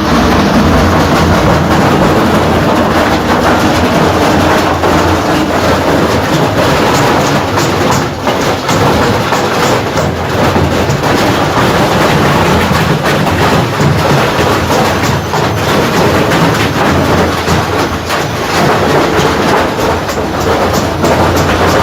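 Washing machine running at full speed with a heavy stone inside, the stone clattering and banging against the drum in a loud, continuous rattle over a steady motor hum.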